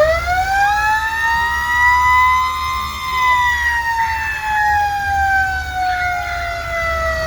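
Fire engine siren winding up to a high wail, peaking about two or three seconds in, then slowly falling in pitch, over the low rumble of the truck's engine.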